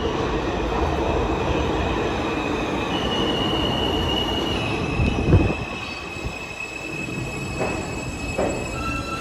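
New York City subway train moving along the platform with its wheels squealing in high, held tones over a steady rumble. About five seconds in there is a sharp knock, after which the train gets quieter.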